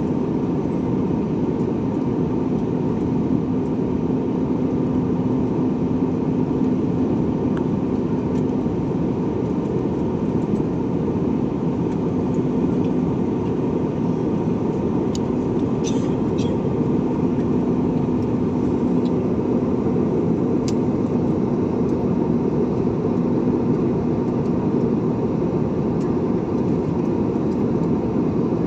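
Steady drone of engines and cabin air inside an airliner cabin, with a low steady hum and a few faint clicks around the middle.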